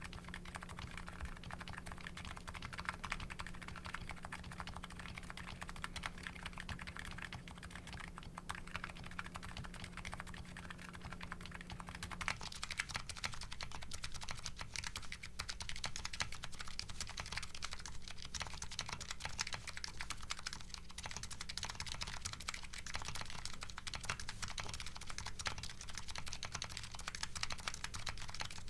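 Steady, fast typing on a Nuxros Kraze custom keyboard fitted with MetaKeebs electro-capacitive (EC) switches, a continuous stream of keystroke clacks. About twelve seconds in the sound changes abruptly as the test switches from CRP R5 keycaps to DCS Sleeper keycaps.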